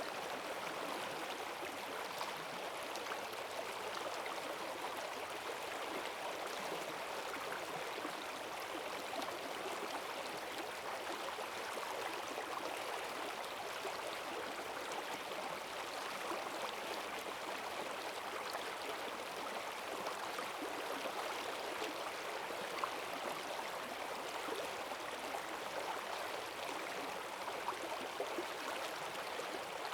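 Forest stream swollen with rainwater, rushing and gurgling steadily in a strong current.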